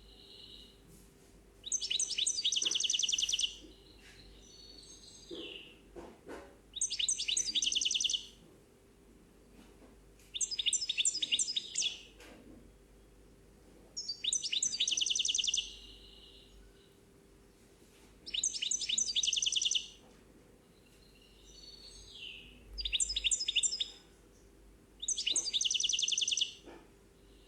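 A songbird singing: the same short phrase of rapid, high trilled notes, repeated seven times about every four seconds, with softer slurred notes between the phrases.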